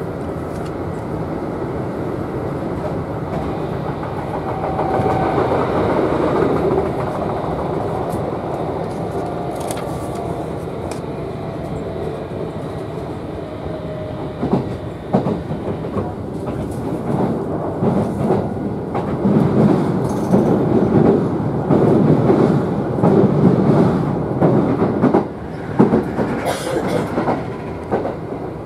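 Kintetsu train running, heard from inside the carriage: a steady rumble of wheels on the rails, with irregular clicks and knocks from rail joints that grow denser and louder in the second half.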